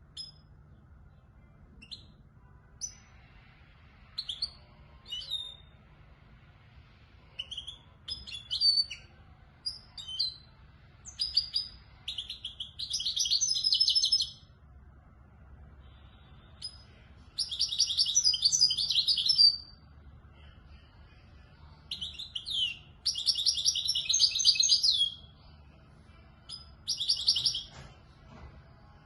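Young European goldfinch singing in the Moroccan Marrakchi song style: scattered short chirps and twitters first, then four long, fast, buzzy trills, each lasting one to two seconds, with short pauses between them.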